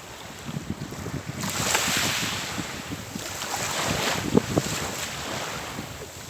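Sea waves: surf swells into a loud hissing wash about a second and a half in, then eases off toward the end. Wind buffets the microphone throughout as a gusty low rumble.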